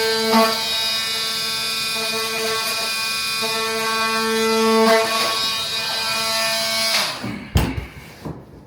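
A handheld power tool running with a steady buzz as it cuts a vinyl flooring plank, shutting off about seven seconds in, followed by a few knocks as the piece is handled.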